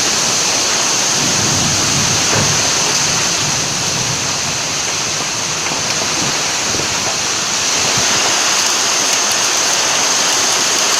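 Heavy rain of a severe summer thunderstorm pouring down in a steady downpour.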